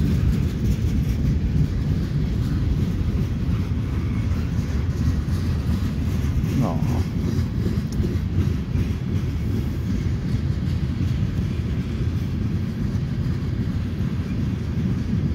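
Covered hopper cars of a passing freight train rolling by on the rails, a steady low rumble of wheels on track. A short higher-pitched tone cuts in briefly about seven seconds in.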